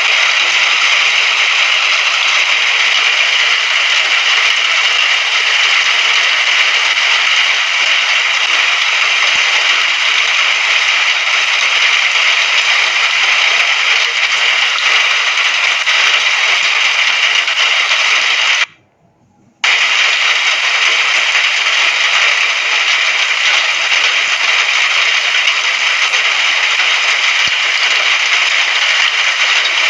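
Steady, dense rainfall hissing evenly, with no thunder. It cuts out abruptly for under a second about two-thirds of the way through, then resumes at the same level, like a seam in a looped recording.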